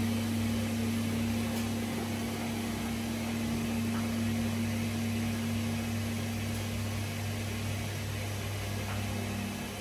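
Gorenje PS 1008 BM washing machine running with a steady, even hum; the higher tone of the hum changes slightly near the end.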